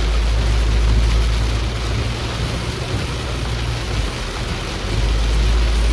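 Vehicle travelling through heavy rain on a flooded road: a steady hiss of rain and water spray over a low rumble that eases off in the middle and swells again near the end.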